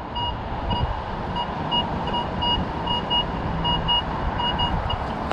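Minelab Vanquish 440 metal detector beeping steadily on a buried target, about three short tones a second, over low wind rumble.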